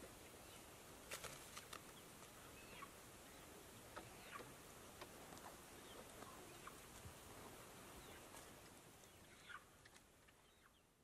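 Very quiet outdoor hush with a few soft, scattered bird chirps and small clicks, fading out near the end.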